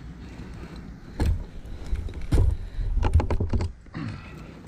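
Several sharp knocks and clunks as a climber works his way down a dead, rotten tree: one about a second in, another a little later, then a quick run of knocks past the middle.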